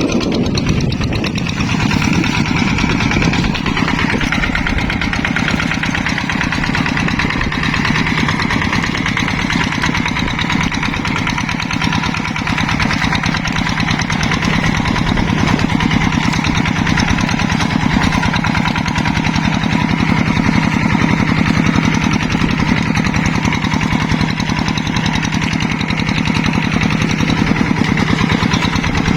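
Diesel engine of a Yanmar paddy-plowing hand tractor running steadily, with a fast, even pulse of firing strokes.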